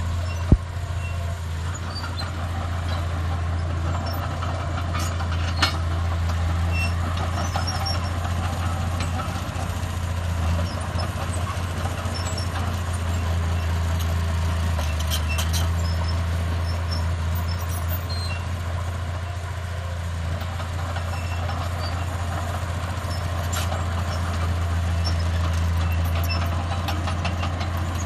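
Heavy diesel engine of earthmoving machinery running steadily with a deep, even hum. A sharp knock comes just after the start and another about six seconds in.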